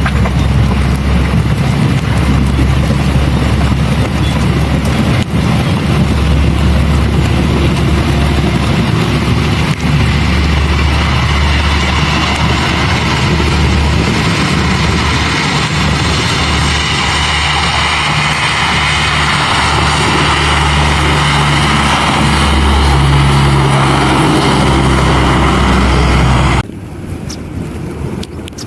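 Aircraft engines running loud as a plane passes close, a continuous rush of engine noise over a wavering low rumble. It cuts off abruptly near the end, leaving a much quieter background.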